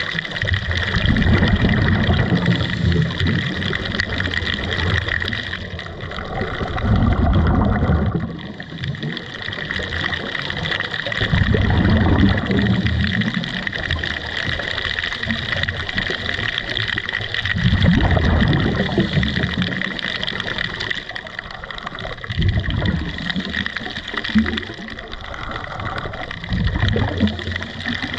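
Underwater sound of a scuba diver breathing through a regulator: a low bubbling rush of exhaled air about every four to six seconds, over a steady hiss.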